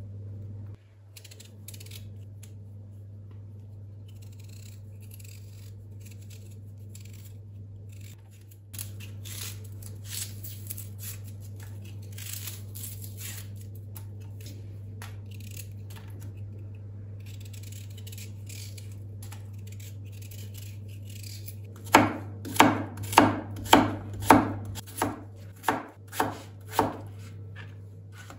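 Light handling and rustling of kitchen things, then, near the end, a knife chopping on a cutting board with about ten even strokes, roughly two a second, over a steady low hum.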